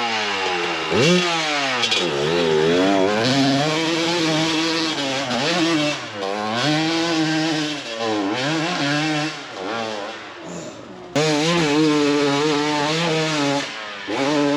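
Off-road motorcycle engine revving up and down over and over under load as a rider works up a steep hill climb. It falls sharply twice near the start, drops away briefly near the end, then comes back loud.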